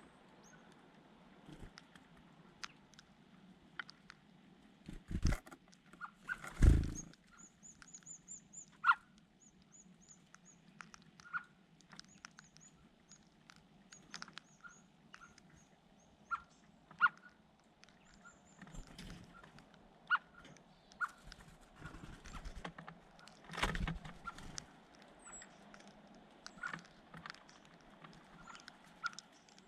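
Small birds giving short chirps, with a run of thin high chirps from about seven seconds in, amid scattered taps and clicks and a few louder thumps near five, seven and twenty-four seconds in.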